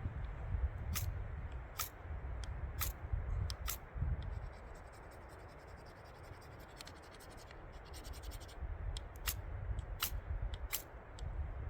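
A series of short, sharp scratching strokes, about seven in all and irregularly spaced: four in the first few seconds and three near the end. They sit over a steady low rumble of wind on the microphone.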